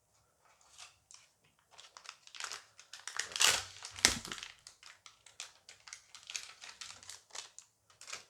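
Dice Masters booster pack wrapper crinkling as it is handled and torn open: a run of irregular crackles that is loudest in the middle, with one sharp crack just after four seconds.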